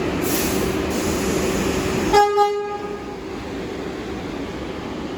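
R62A subway train in the station: steady rumble and hum, then about two seconds in, two short pitched signal toots from the train in quick succession that ring away over a second, followed by a lower steady rumble.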